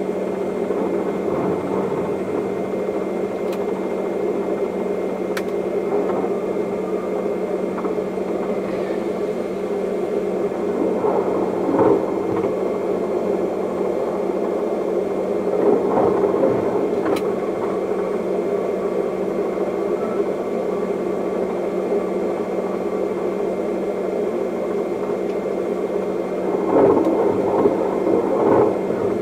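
Steady running noise inside the cab of an Intercity train's control car rolling through a rail yard: a constant hum under a rumble of wheels on track, with short louder rattles about 12 and 16 seconds in and twice near the end, where the wheels cross points.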